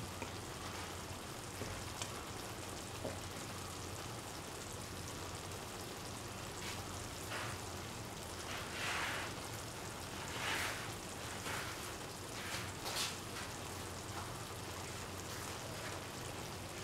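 Prawn curry sizzling gently in a pan: a steady soft hiss of frying, with a few louder sputtering swells from about seven seconds in.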